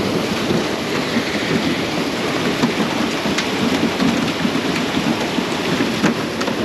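Dense, steady splashing and pattering of water as many farmed trout thrash together, crowded into a small netted corner of a pond.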